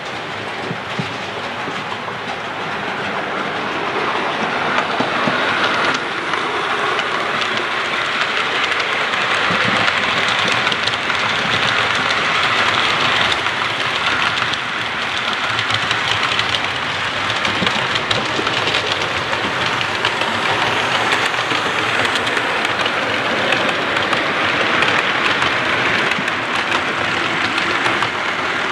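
A train running past, its wheels clattering over the rails. The noise builds over the first few seconds and then keeps on at an even level.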